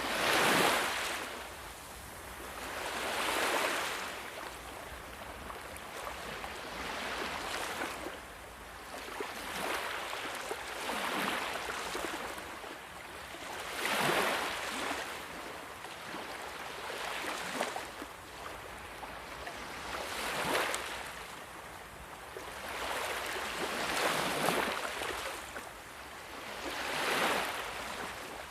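Sea waves breaking and washing in, a hiss of surf that swells and falls away again about every three to four seconds.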